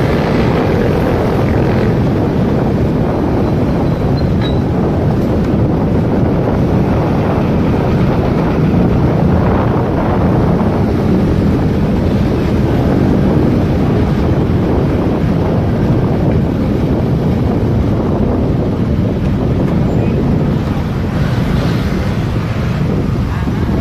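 Steady wind rushing over the microphone of a moving motorcycle, with the bike's engine and road noise beneath it.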